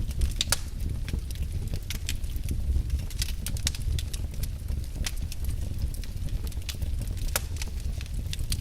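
Wood burning in a fireplace, crackling with irregular sharp pops and snaps over a low, steady rumble of the flames.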